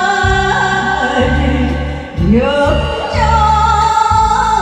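Korean song sung in Korean over a backing track: the singer holds long notes, sliding up to a higher note about two seconds in, over steady bass notes.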